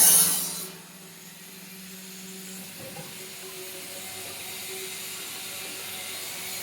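Truck-loading conveyor machinery: a loud clattering, hissing run stops under a second in, leaving a quieter steady motor hum with a low held tone.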